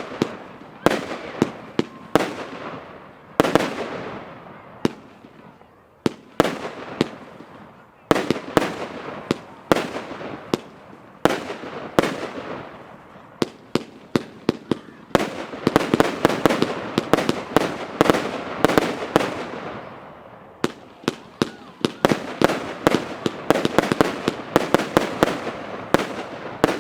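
Funke Blitzgewitter firework going off. Groups of sharp bangs come again and again, each trailing off in a dense rush of noise that fades over a second or two. The firing comes thicker and faster in the second half.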